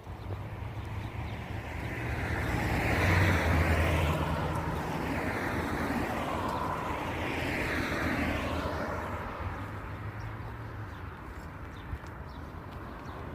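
Highway traffic: vehicles passing one after another, tyre and engine noise swelling and fading over a steady hum, loudest about three to four seconds in.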